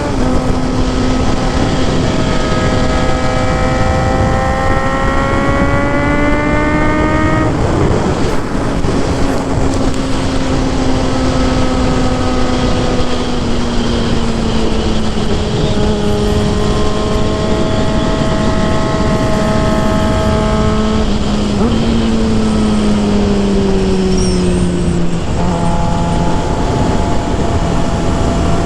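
Suzuki GSX-R 750 inline-four engine and exhaust running at speed under heavy wind noise. The engine note climbs steadily for the first quarter, breaks off at a throttle change or shift, then holds and slowly drops for the rest, with a brief step up about three quarters through.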